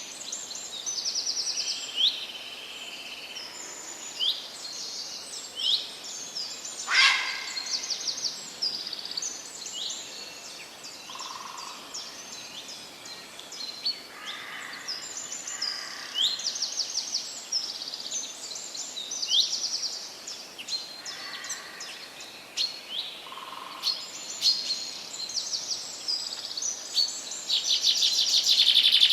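Chorus of several songbirds singing in a forest, with many high chirps and rapid trills over a steady background hiss. One louder call stands out about seven seconds in.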